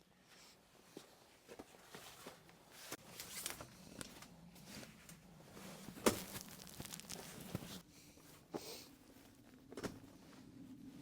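Rustling and handling noises with scattered light clicks and knocks, one sharp click about six seconds in.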